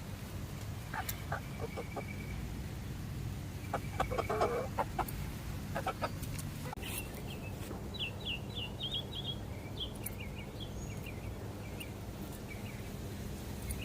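Chickens clucking in short scattered calls, busiest about four seconds in, then a quick run of high chirps from about eight seconds in.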